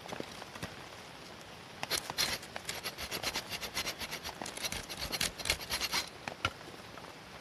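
Steady rain on the tent canvas, with a quick run of close scratching and scraping clicks for about four seconds from about two seconds in.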